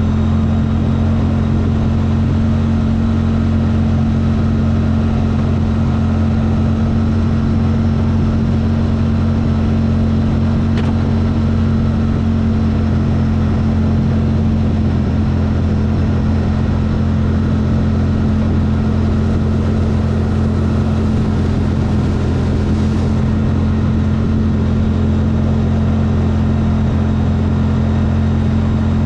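CFMOTO vehicle's engine running steadily at a constant speed, with an even drone that neither rises nor falls.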